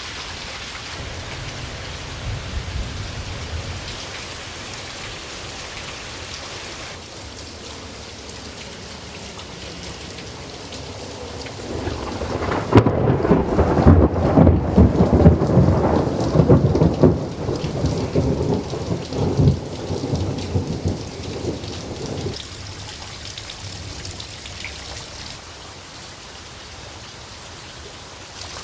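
Heavy thunderstorm rain falling steadily, with a long roll of thunder that starts about twelve seconds in and rumbles for about ten seconds before fading back to the rain; a fainter rumble comes a couple of seconds in.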